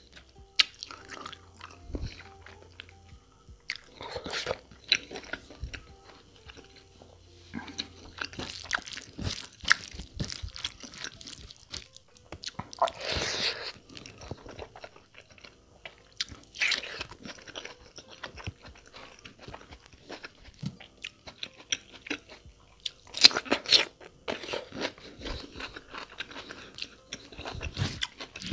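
Close-up mouth sounds of a man eating mutton curry with rice: wet chewing, biting and crunching in irregular bursts, with a few louder crunches about halfway through and again later on. Between bites there is soft squishing as his fingers work the rice and gravy together.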